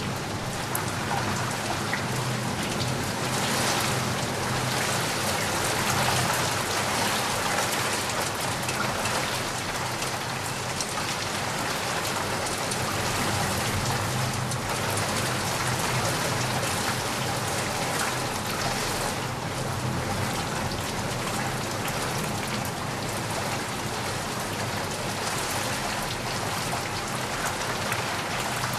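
Heavy rain falling steadily, an even hiss of many drops without a break.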